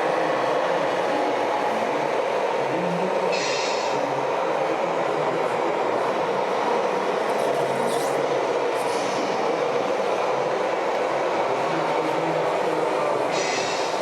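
Steady mechanical running noise from radio-controlled model trucks and construction machines, with a short high hiss about three and a half seconds in and another near the end.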